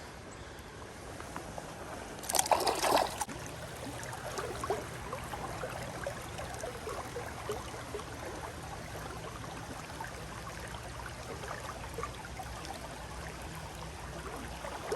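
Creek water running steadily in the rain, with scattered small ticks and one short splash about two seconds in.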